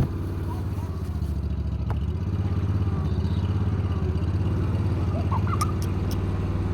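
An engine running steadily at idle, an even low hum, with a few light clicks and ticks over it.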